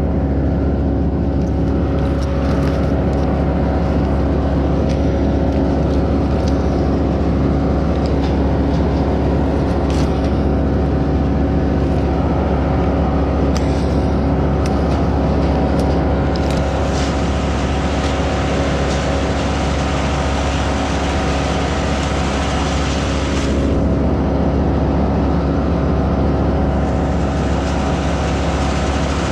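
An engine running steadily at an even pitch, with scattered short clicks or knocks over it.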